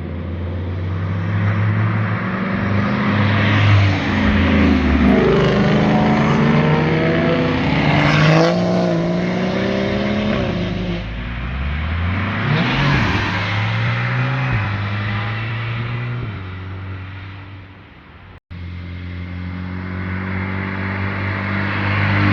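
Car engines revving hard as cars accelerate past on a winding road, rising in pitch through the gears and dropping away as each goes by. After a sudden cut near the end, another car's engine runs steadily and slowly grows louder as it approaches.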